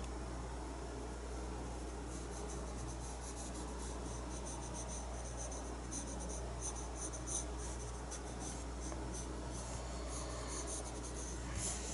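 Paintbrush stroking and dabbing acrylic paint onto the painting: faint, quick scratchy strokes, coming thicker from about two seconds in, over a steady low hum.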